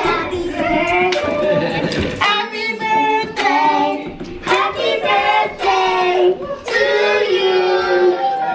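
Several voices singing, children's among them, with a few sharp hand claps.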